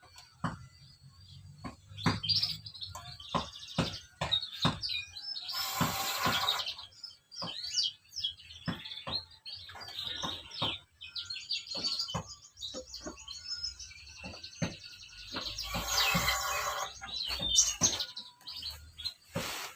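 Small birds chirping and twittering rapidly, mixed with many short sharp ticks and two longer noisy rasps, about six seconds in and near sixteen seconds.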